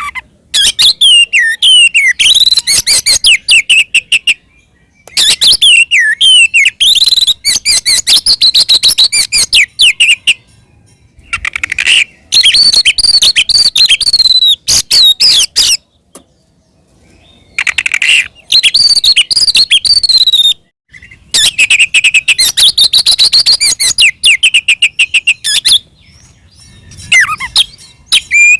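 Oriental magpie-robin (kacer) singing in an aggressive fighting mood (ngeplong tarung): loud bouts of rapid chattering notes and whistled up-and-down slides, broken by short pauses of about a second, six bouts in all.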